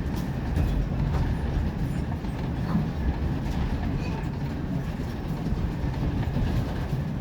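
Railway carriage of a steam-hauled train rolling along the track: a steady low rumble of wheels on rails with faint clicks.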